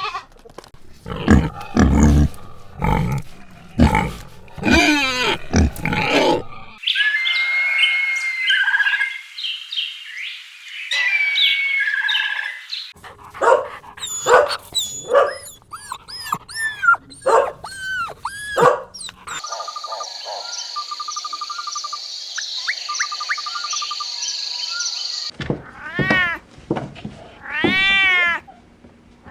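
A run of different animal calls edited one after another. First come loud calls, then high chirping, then other calls, a steady high hiss with short repeated notes, and near the end repeated calls that rise and fall.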